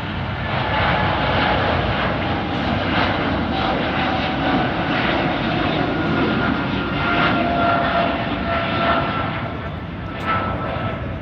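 Jet airliner engines: a loud, steady rush of engine noise with whining tones that slowly fall in pitch as the aircraft passes.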